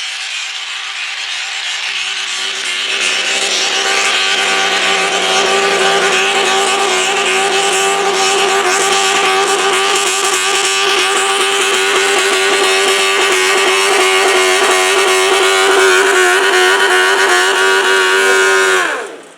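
Modified garden tractor's engine at full throttle during a pull: a steady high-revving note that builds over the first few seconds and holds, then falls sharply in pitch and level near the end as the throttle is let off.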